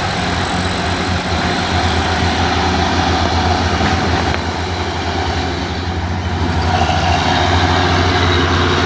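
Heavy diesel truck engines running steadily under load on a climb, a deep continuous drone that shifts slightly near the end.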